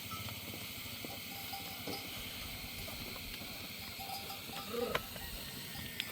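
Bells on a flock of sheep clinking here and there over a steady hiss of rain, with one brief louder sound a little before five seconds in.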